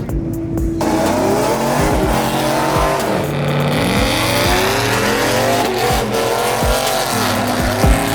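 Vehicle tires squealing, a wavering, rising and falling screech that starts about a second in and stops near the end, over background music with a steady beat.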